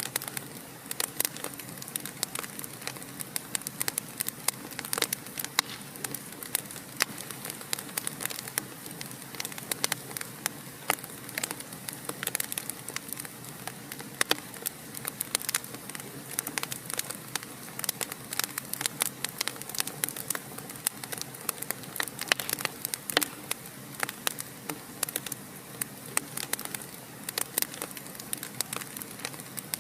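Wood fire in a fireplace crackling, with frequent sharp irregular pops and snaps over a steady low hiss of burning.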